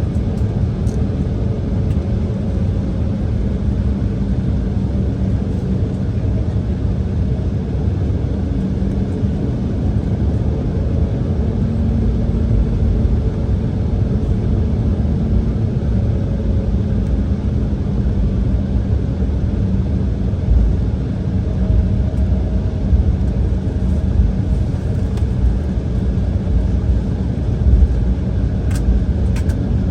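Cabin noise of an Embraer E170 taxiing: the GE CF34 turbofans running at a steady low power with a hum, over a rumble from the wheels rolling on the taxiway.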